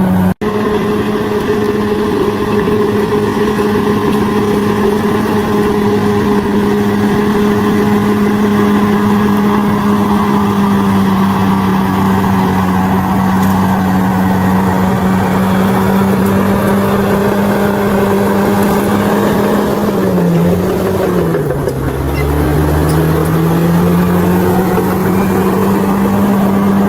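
Bulldozer's diesel engine running steadily at high revs; about twenty seconds in its pitch sags and then climbs back over the next few seconds.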